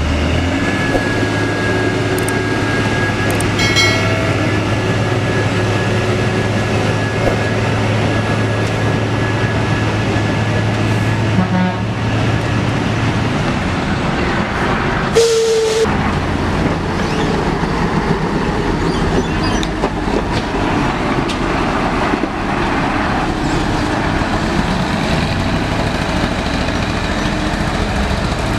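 Heavy truck's diesel engine running steadily under load, a low drone that changes pitch about twelve seconds in. About halfway through comes one short, loud blast with a single tone, like a horn.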